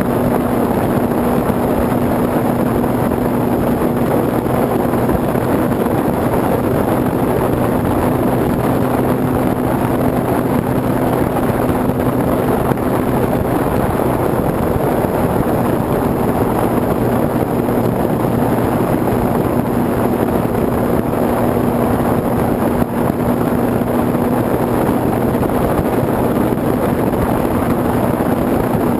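Onboard sound of a small foam RC airplane in flight: the steady hum of its electric motor and propeller under heavy wind rush over the camera.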